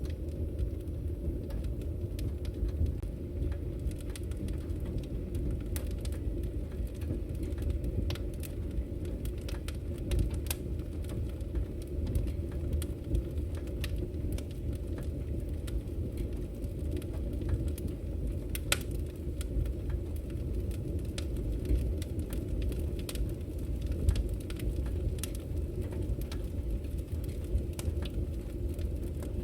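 Wood fire burning in a fireplace: a steady low rumble of the flames under frequent sharp crackles and pops from the firewood, with one louder pop about 24 seconds in.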